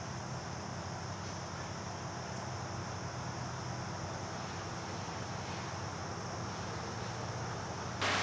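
Steady outdoor ambience: a constant high buzz like an insect chorus over a low hum, with no distinct events. A louder noise cuts in suddenly at the very end.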